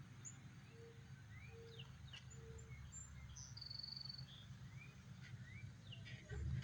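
Faint outdoor birdsong: scattered short chirps and whistles, with three short level notes in the first few seconds. Underneath is a steady low rumble, taken for a freight train still out of sight, which swells near the end.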